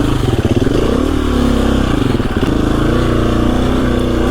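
KTM 350 EXC-F single-cylinder four-stroke dirt bike engine running under the rider at low-to-mid revs, choppy at first and then picking up in pitch about a second in before holding fairly steady with small throttle changes.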